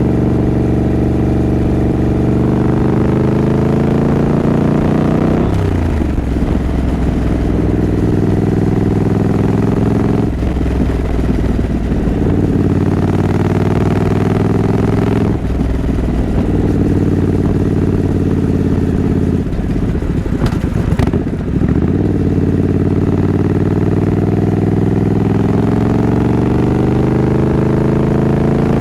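Triumph Scrambler 900's parallel-twin engine under way, pulling up through the gears: its pitch climbs and drops back at upshifts about 5, 10 and 15 seconds in. There is an uneven dip around 20 seconds, then it settles into steadier running.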